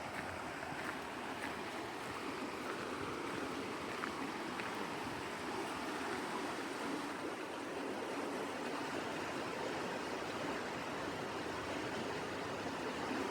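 Steady rushing of flowing stream water, an even wash of noise with no breaks.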